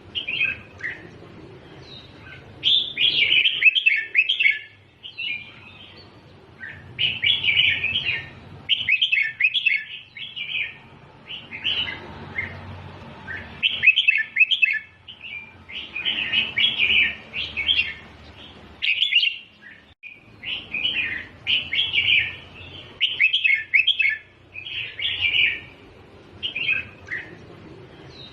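Red-whiskered bulbul singing: short, chattering song phrases repeated every second or two with brief pauses between them.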